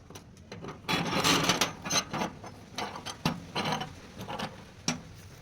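Irregular clicks, knocks and short scraping sounds of hand work with tools, loudest about a second in.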